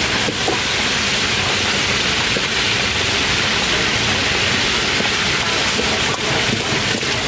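Food frying in hot oil at a street-food stall, a loud steady sizzle with faint scattered crackles.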